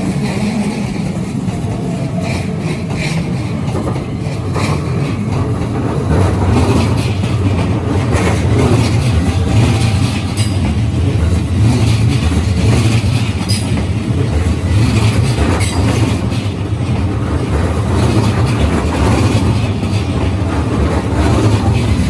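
Keikyu Line electric train passing over a level crossing: a steady rumble with wheels clattering on the rails, growing louder about six seconds in.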